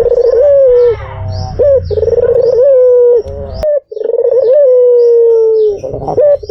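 White Barbary dove (puter putih) cooing: a run of loud, drawn-out coos, each sliding slightly down in pitch, repeated with short breaks.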